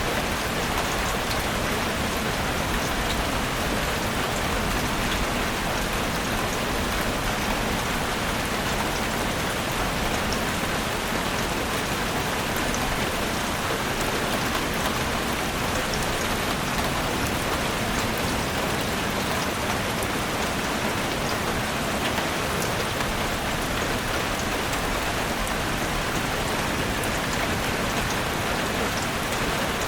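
Steady rain falling on a forest, an even hiss with faint scattered drop ticks, no lulls or thunder.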